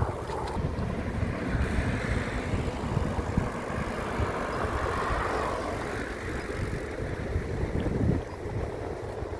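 Wind buffeting the microphone while cycling along a road: a steady, uneven low rumble.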